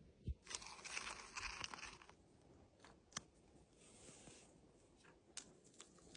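Faint crinkling and tearing handling noises, a longer burst early on and a shorter one about four seconds in, with a few sharp clicks between.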